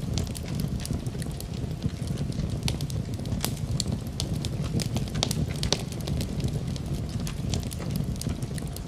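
Wood fire crackling in a fireplace, with frequent sharp pops and snaps scattered irregularly over a steady low rumble.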